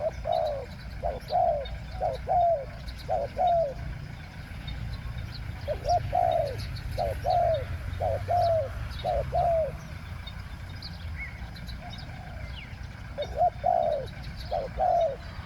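Spotted dove cooing: three bouts of repeated low coos, the last bout near the end. Faint chirps of small birds behind.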